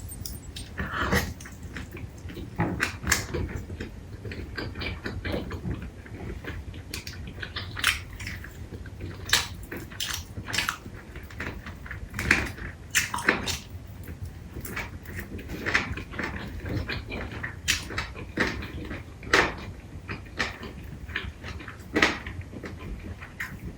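Close-miked eating of crispy fried chicken lollipops: irregular crunchy bites and chewing, with sharp clicks about once or twice a second.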